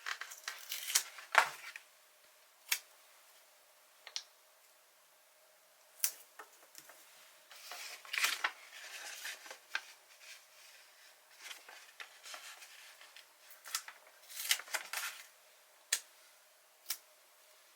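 Paper stickers being handled: scattered sharp taps and clicks with a few short rustles of paper, the longest about eight seconds in and again around fifteen seconds in.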